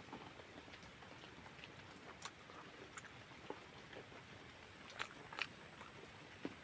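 Faint close-up chewing of a mouthful of rice and pork, with a few short clicks scattered through.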